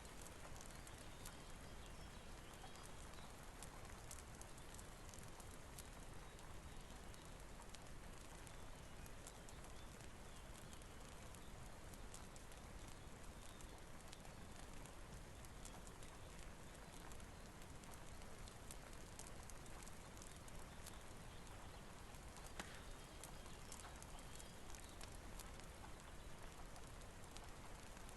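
Quiet rain-and-fireplace ambience: a steady soft hiss of rain with scattered small crackles and ticks, one a little louder near the end.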